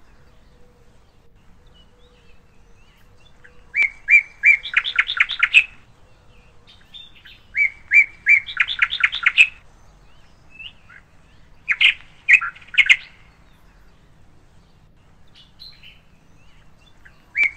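A songbird singing a repeated phrase: a few clear notes followed by a quick run of rising notes. The phrase comes every few seconds, with quiet gaps between.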